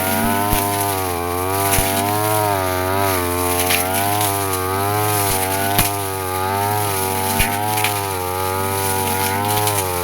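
Brush cutter running at high speed while cutting grass, its engine pitch dipping and rising repeatedly as the spinning blade takes the load. A few sharp ticks stand out over it.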